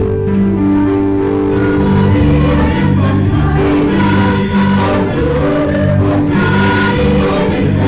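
Church choir singing a Christmas hymn, several voice parts held together in long sustained notes.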